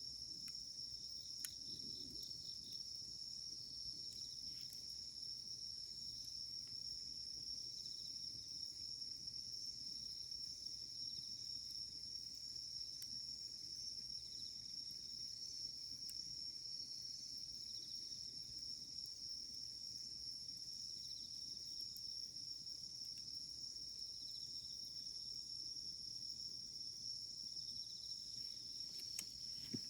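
Steady, high-pitched chorus of crickets or similar insects, with a few faint, scattered crackles from a wood campfire.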